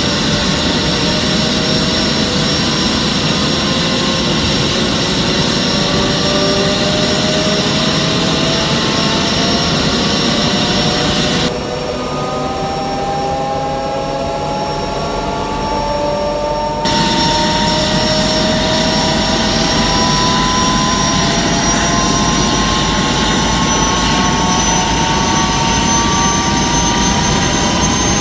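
Gazelle SA342M helicopter's Astazou turboshaft running with a whine while the main rotor spins up after engagement. Its tones rise slowly and steadily as the rotor accelerates toward turbine speed. Near the middle the sound turns muffled for about five seconds.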